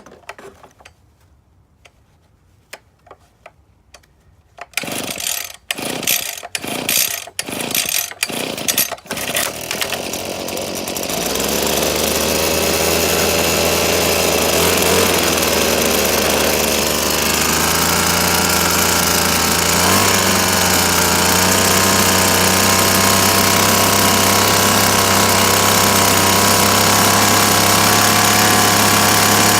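Small two-stroke engine of an RB24EAP handheld blower being cold-started on choke. It fires in several separate sputters about half a second apart, catches about ten seconds in and then runs steadily, its pitch lifting a little partway through.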